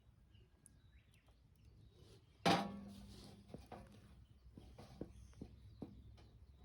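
One sharp metallic clank about two and a half seconds in that rings on briefly with a steady low tone, followed by scattered light clicks and knocks of cookware and utensils being handled.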